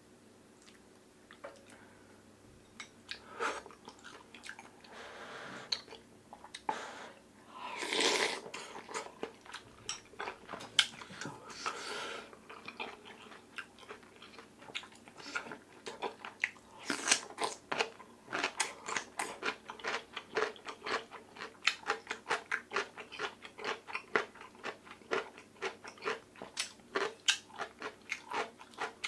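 Close-miked eating, with no talk. In the first half come a few longer, louder eating sounds. Then, from a little past the middle, steady crisp crunching of chonggak (ponytail radish) kimchi being chewed, about three crunches a second.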